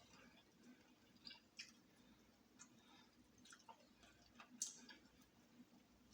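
Faint, irregular clicks and wet smacks of someone eating fried chicken, chewing and picking meat off the bone; the loudest click comes about four and a half seconds in.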